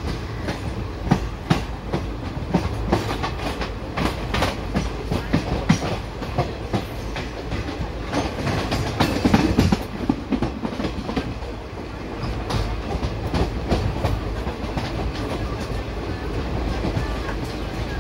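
Indian Railways passenger coach running along the track, its wheels clattering irregularly over rail joints over a steady low rumble. The clatter gets busier and louder about nine seconds in.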